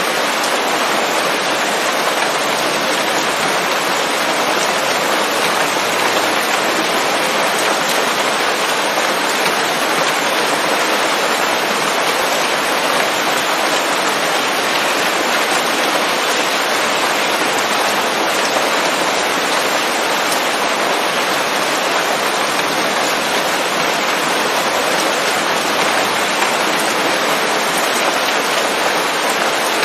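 Steady rain falling on forest leaves, an even, dense hiss that does not let up.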